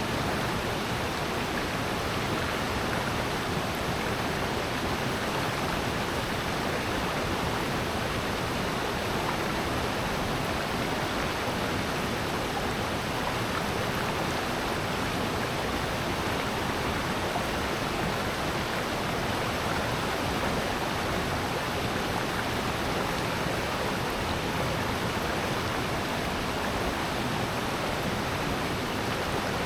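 Rushing water of a valley stream, a steady, unbroken rush with no change in level.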